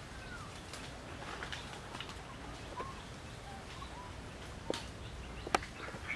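Outdoor forest ambience with faint, short arched whistling bird calls about once a second. Two sharp clicks come near the end, the second louder.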